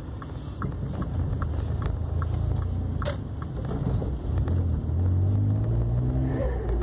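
Volkswagen up! TSI's small turbocharged three-cylinder engine running, then pulling away with its note rising from about four seconds in. A light regular ticking, about two and a half a second, stops after a couple of seconds, followed by a single sharp click.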